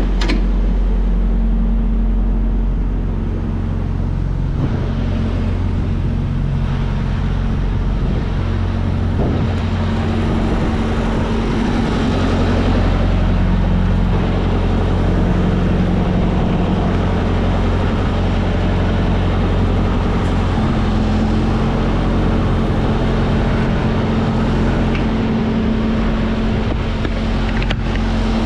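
Freightliner semi-truck's diesel engine running steadily, its note stepping up and down in pitch a few times.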